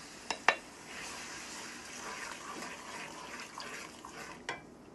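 Spices hitting hot oil and ginger-garlic paste in a pan and sizzling with a crackly frying noise. There are two sharp knocks of a utensil against the pan near the start and another near the end.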